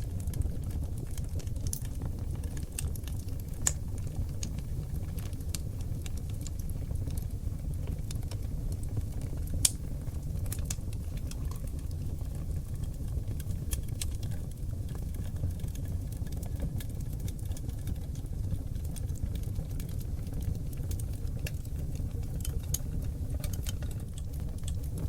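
Oak-log wood fire burning in a fireplace: a steady low rumble from the flames with frequent small crackles and sharp pops, the loudest pops about four and ten seconds in.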